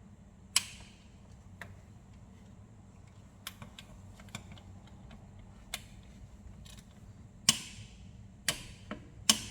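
Scattered sharp metallic clicks and taps of hand tools on metal engine parts, irregularly spaced, the loudest about seven and a half seconds in, as timing chain guide bolts are tightened. A faint steady low hum lies underneath.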